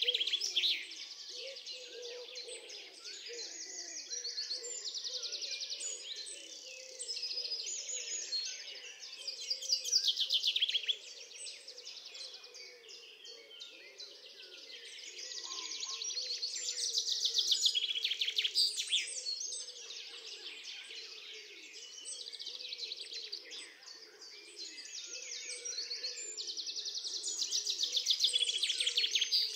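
Birds singing in rapid, trilling phrases that swell and fade every few seconds, over fainter, lower chirping.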